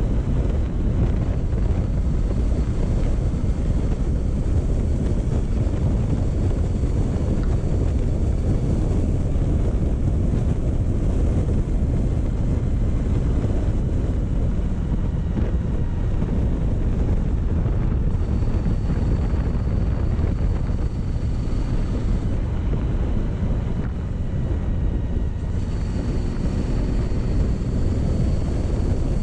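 Motorcycle riding at a steady, slow pace, its engine running under heavy wind rumble on the microphone.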